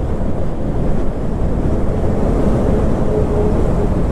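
Steady wind rushing over the rider's microphone while riding a KTM Duke 250 single-cylinder motorcycle at highway speed, with the engine's note faintly beneath.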